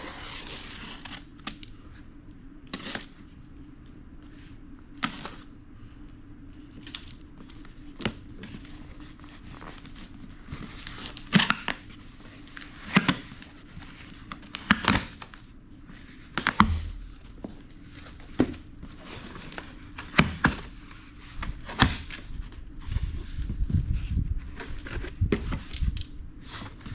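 A cardboard shipping box being opened and unpacked: packing material crinkling and tearing, with scattered sharp clicks and knocks as the contents are handled, and a few dull thuds in the second half.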